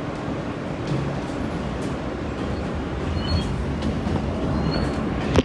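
New York subway train running between stations, heard from inside the car: a steady low rumble of wheels on track, with faint ticks and one sharp click near the end.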